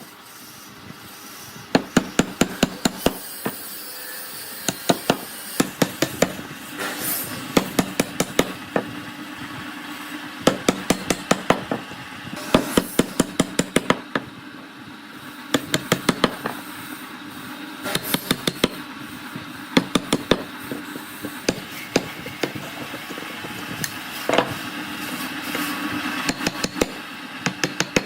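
Hammer striking in quick runs of several blows a second, with short pauses between the runs, as in driving nails or working with a mallet in woodworking.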